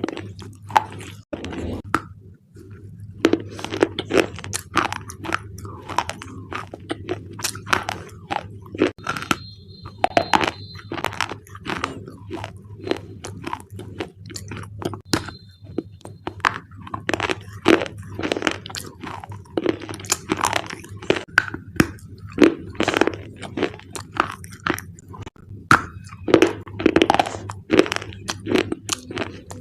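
Thick black slate bars being bitten and chewed, close to the microphone: dense, irregular sharp crunches and cracks several times a second, over a steady low hum.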